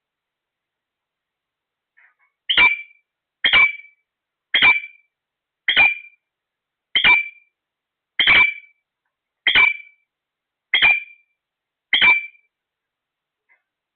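Parrot calling: nine short, sharp, identical calls repeated about once a second, then stopping.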